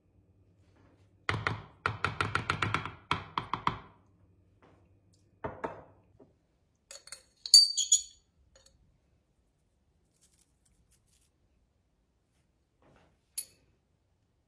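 A quick run of knocks and rattles lasting a couple of seconds, then a shorter knock, a few bright high clinks, and a single sharp click near the end.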